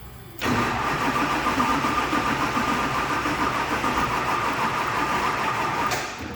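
Starter motor cranking a swapped-in Duramax diesel engine for about five and a half seconds with a steady whine, without it catching, then stopping. The battery lacks enough power to start it.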